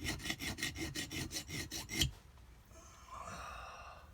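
Hand file rasping quickly back and forth over burred metal edges of a jet-ski jet pump part, deburring the furled-over edges; the strokes stop after about two seconds. A faint breathy sound follows near the end.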